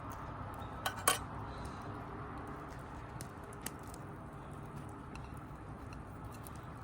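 Two sharp clinks of utensils or cookware about a second in, and a lighter one a little past the middle, over a steady low background noise.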